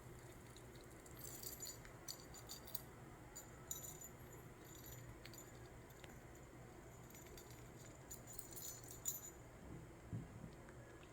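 Small bell inside a toy ball jingling faintly in short, irregular shakes as a green-cheeked conure plays with it.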